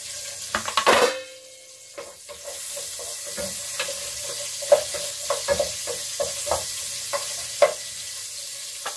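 Garlic and onion sizzling in hot oil in a deep pot while a wooden spatula stirs them, knocking against the pot now and then. A louder clatter about a second in.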